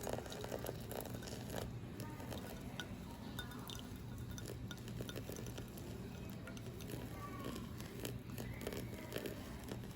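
Light scattered clinks and taps of glass or ceramic tableware over a low steady hum.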